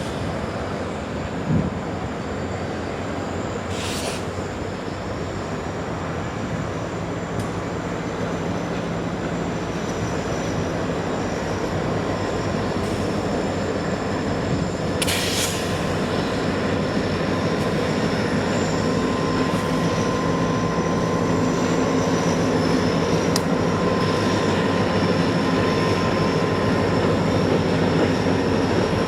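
Taconite ore train rolling past: steel wheels on rail make a steady rumble that slowly grows louder, with a thin, high wheel squeal and a few short clicks.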